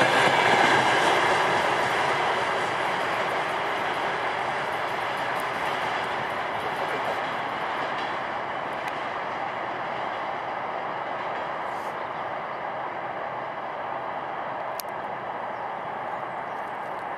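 Freight train of tank cars rolling past and away, wheels running on the rails; the noise fades steadily as the last cars pull off into the distance.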